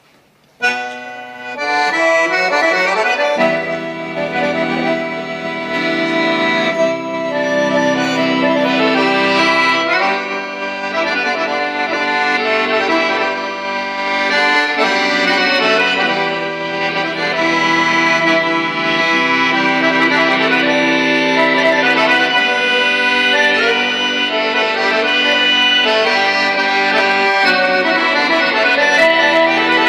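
A live band plays the instrumental introduction to a song, with held chords that change every few seconds and no singing. The music starts about half a second in.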